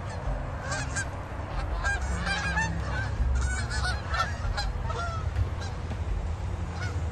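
A flock of geese honking, with many short overlapping calls and a busy burst of rapid honks in the middle, over a steady low rumble.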